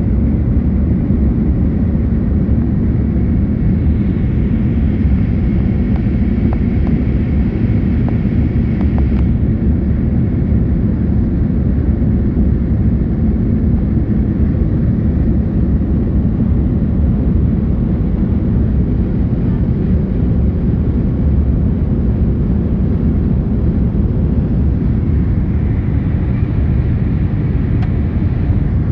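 Airbus A310 jet airliner during its takeoff climb: a steady, loud roar of engines and rushing air, with a faint high steady whine on top.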